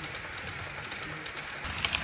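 Model train running on the layout track: a steady rumble, with a run of quick, sharp clicks that starts near the end.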